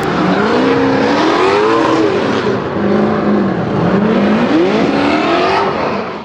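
Drift car engine revving on track, its pitch climbing and dropping several times as the throttle is worked.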